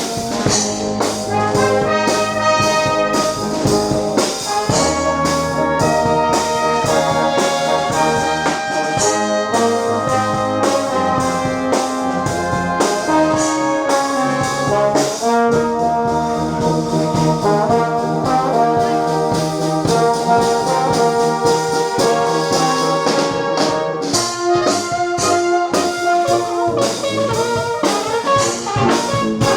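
Brass music playing a tune over a steady beat, with notes held and changing throughout.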